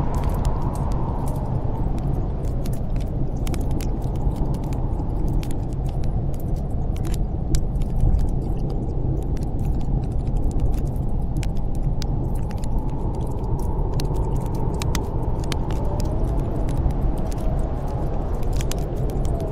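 Snowstorm wind blowing steadily with a low rumble, while a wood fire crackles over it in sharp, irregular pops.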